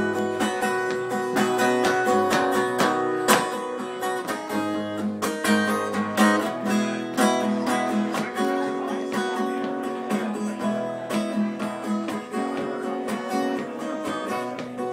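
Acoustic guitar strummed and picked steadily, an instrumental passage with no singing.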